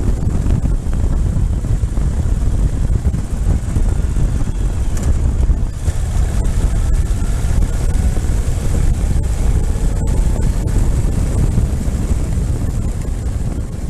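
Loud, steady wind rumble on the microphone of a motorcycle on the move, with faint engine or road sound under it.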